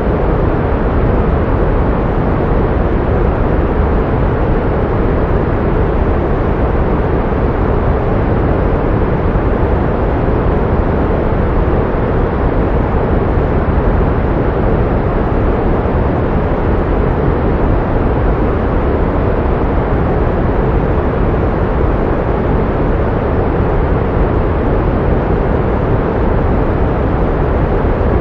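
Pink noise: a steady, unchanging rush, fuller in the low and middle range and dull in the highs.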